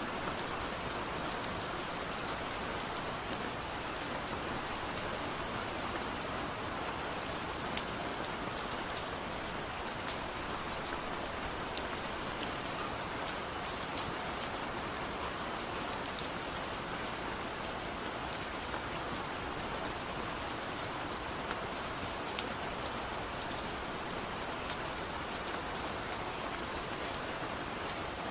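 Steady rain falling, a continuous even hiss scattered with the small sharp clicks of individual drops.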